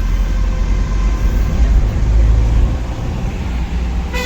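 Steady low rumble of a road vehicle in motion, with faint steady whining tones above it.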